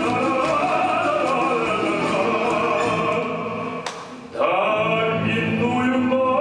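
Live orchestral music with a singer holding sustained, wavering notes in an operatic style. The music drops away briefly about four seconds in, then comes back in full.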